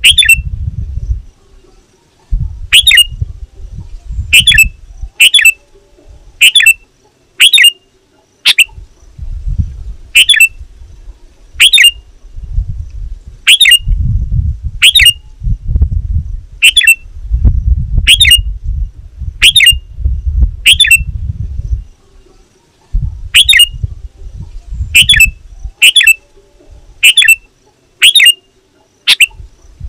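Sooty-headed bulbul (kutilang) giving short, sharp calls over and over, about one a second with a few short gaps, each a quick downward sweep. This is the bird's loud 'gacor' calling, used as a lure call to draw in rival bulbuls. A low rumble comes and goes under the calls.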